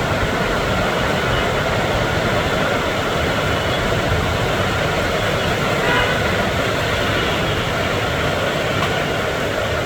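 Heavy rain falling, a steady loud rushing hiss with a low rumble underneath.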